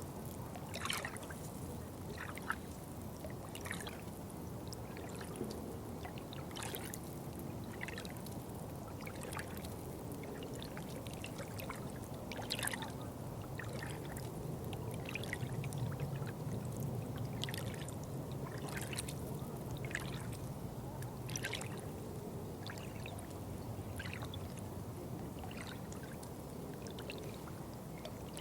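Water trickling and splashing: a steady low rush with irregular sharp splashes, swelling a little in the middle.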